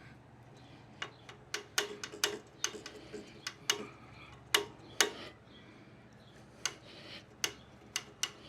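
Irregular sharp clicks and taps, many in quick uneven succession through the first half, then more spread out near the end.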